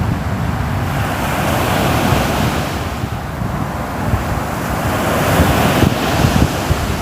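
Ocean surf, waves washing in continuously, swelling twice in broad surges.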